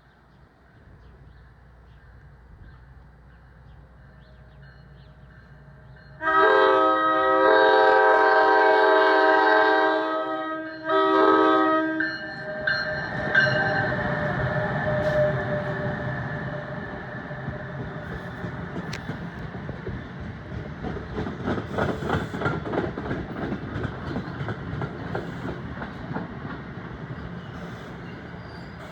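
NJ Transit train approaching and sounding its horn, one long blast of about four seconds and then a short one. The train then passes with wheels clattering over the rail joints over a steady rumble that slowly fades.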